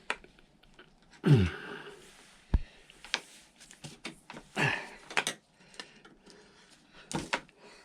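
Scattered clicks, knocks and a few louder scrapes of plastic parts and rubber hoses being handled and worked loose on a scooter's carbon canister.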